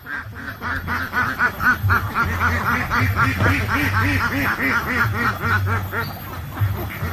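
Waterfowl calling in a fast series of short, nasal, quack-like honks, about three a second, over a low steady rumble.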